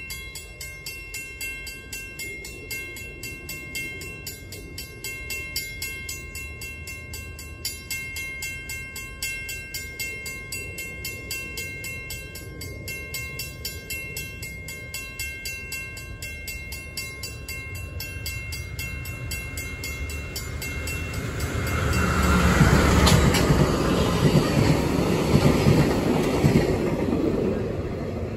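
A railroad warning bell dinging steadily, about two strikes a second, as a train approaches. From about 21 s in, the rumble and rush of the passing train swells loud and drowns out the bell.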